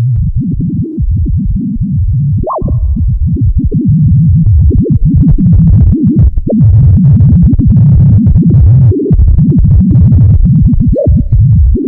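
Exaggerated sonification of a sleeping pigeon's brain EEG: the brain's electrical activity turned into a dense, rapidly fluctuating low electronic sound. It grows louder about four seconds in, with a brief rising tone about two and a half seconds in.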